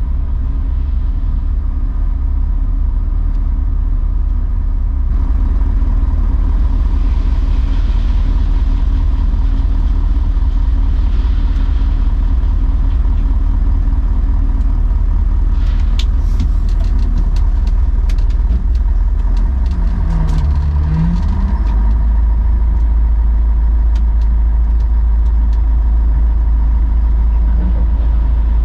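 Tatra Terrno1 6x6 tipper truck's diesel engine running with a steady low rumble. A little past the middle there is a short stretch of clattering ticks. About two-thirds in, the engine note dips and rises again, then settles into a deeper, heavier rumble.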